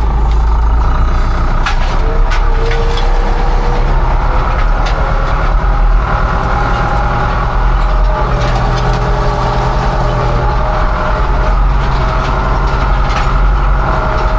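Farm tractor engine running steadily, with a few light ticks and knocks over it.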